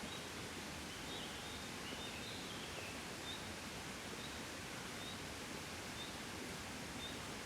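Steady gentle breeze, an even rushing noise without gusts. Faint short high chirps repeat about once a second over it, with a brief twittering about a second or two in.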